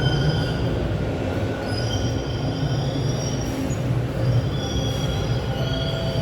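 Subway train running, heard from inside the car: a steady low rumble of the wheels on the rails, with high, thin wheel squeals that come and go.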